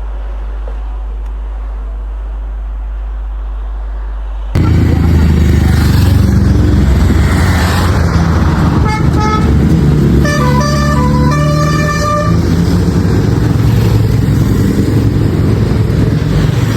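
Road traffic noise with vehicle horns honking repeatedly at several pitches over a few seconds in the middle. The noise jumps abruptly from a steady low rumble to a much louder engine and road noise about four and a half seconds in.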